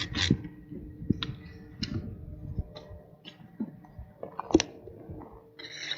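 Scattered clicks and light knocks from tie-down straps and their hardware being handled, with a faint steady hum underneath.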